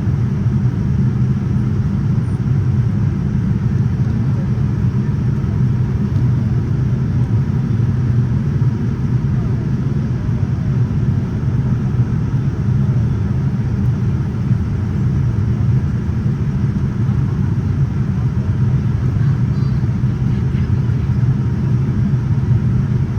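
Steady cabin noise inside a Boeing 787-9 in flight: an even, low rumble of airflow and engine drone that holds constant throughout.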